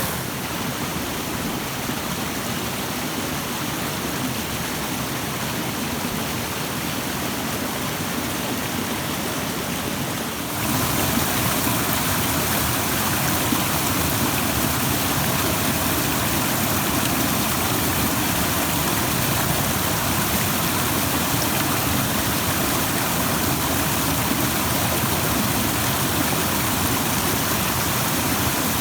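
Rushing stream water, a steady, even rush with no pauses. About ten seconds in it jumps abruptly louder and fuller.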